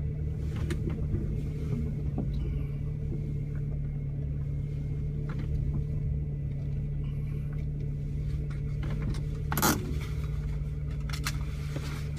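Car engine idling steadily, a low even rumble heard from inside the cabin, with one brief sharp noise about ten seconds in.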